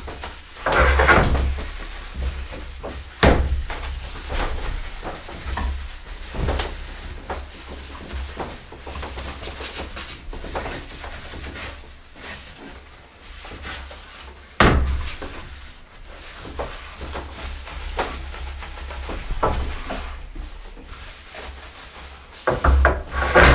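A cloth rubbing over freshly oiled wooden ladder parts, wiping off the excess oil in irregular strokes, with a few sharp knocks, the loudest about three seconds in and again near the middle.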